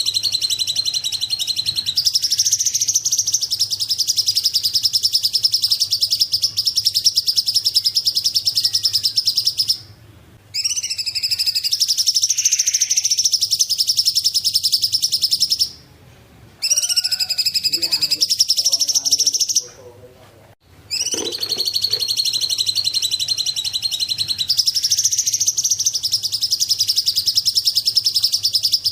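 Songbird known locally as 'cungkok' singing long, very rapid, high-pitched trills that run for several seconds at a time, broken by three short pauses.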